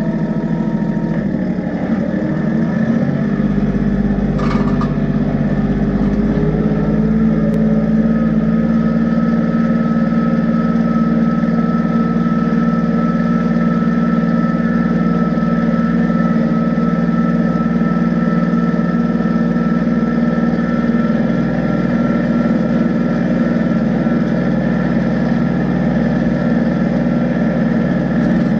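Kubota tractor's diesel engine running, its revs picking up over the first few seconds and then holding steady, with a short clank about four seconds in.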